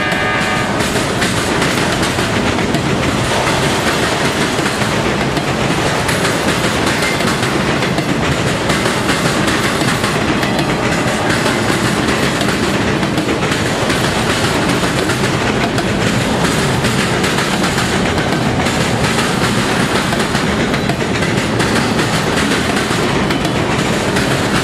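Autorack freight cars rolling past, their wheels clattering over the railroad diamond crossing in a steady, loud rumble. A held horn-like tone at the start stops about a second in.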